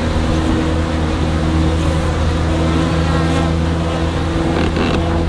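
Steady hum of a great many honeybees buzzing around an opened, crowded hive.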